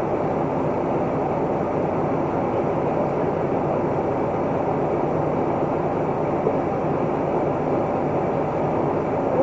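Isuzu Erga Mio city bus under way, heard from inside the cabin: a steady mix of its diesel engine and road noise.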